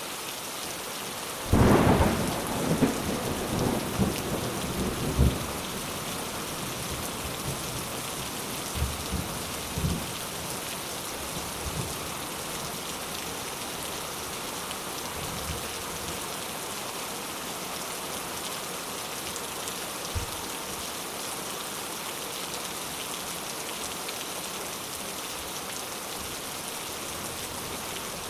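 Steady rain falling on a palm-leaf thatched hut roof. A loud clap of thunder with a rolling rumble comes about two seconds in, followed by fainter rumbles around ten seconds and a short one near twenty seconds.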